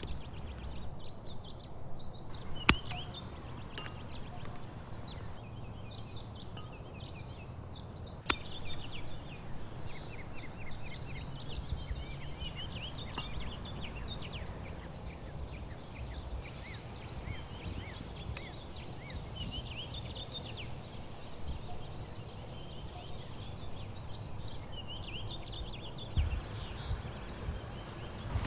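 Small birds chirping and twittering in quick, repeated calls over a low steady outdoor rumble, with two sharp snaps early on and near the 8-second mark.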